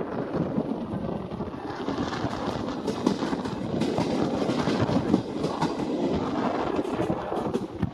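Train running along the track: a steady rumbling roar with wheels clattering and clicking over the rails.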